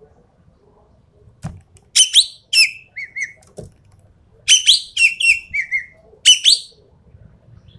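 Ekek keling bird calling in loud groups of harsh, downward-slurred shrieks. Softer paired warbled notes come in between, with two short knocks.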